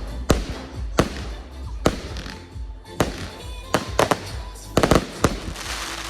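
Fireworks going off in irregular succession: about eight sharp bangs, with a quick cluster of cracks near the five-second mark. Music with a steady bass plays underneath.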